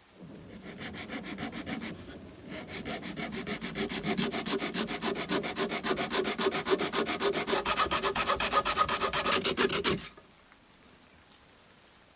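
Sandpaper rubbed by hand in quick back-and-forth strokes, about five a second, a scratchy even rasp. It eases off briefly about two seconds in, picks up louder, and stops abruptly about ten seconds in.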